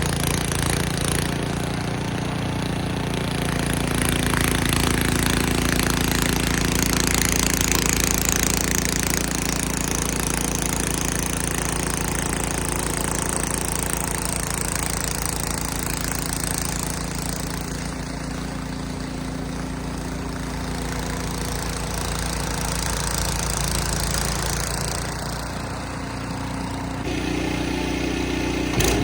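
Ariens snow blower engine running steadily with a rushing hiss over it. Its tone shifts near the end.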